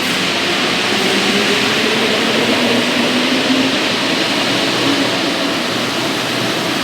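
Santiago Metro Line 1 rubber-tyred train moving through the station: a loud, steady rush with a faint motor whine that falls in pitch over a few seconds.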